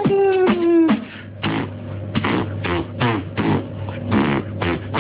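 A person making vocal sound effects with the mouth, beatbox-style: a held, slightly falling pitched tone that stops about a second in, then a quick, uneven run of short noisy mouth sounds.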